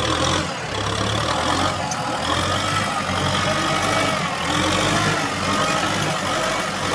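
Four-wheel-drive tractor's engine running steadily, its pitch wavering slightly as the load changes.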